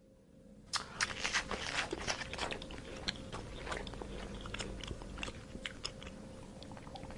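An animal chewing and crunching food: a dense, irregular run of crisp crunches that starts about a second in and thins out near the end.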